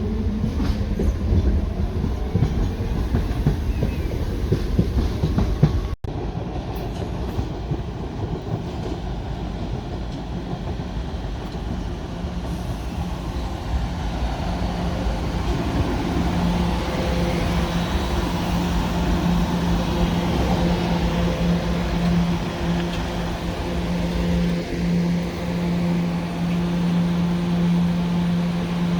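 Staten Island Railway electric subway-type train running along the track with a continuous rumble. A steady low hum sets in about halfway through and holds to the end.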